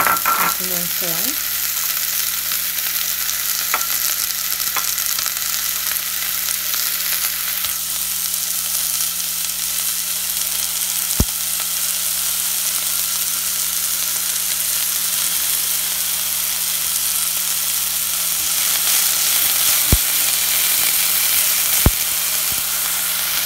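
Diced onion and green pepper sizzling steadily as they fry in hot oil in an enamel pot, with a few sharp clicks of utensil on pot and a steady low hum underneath.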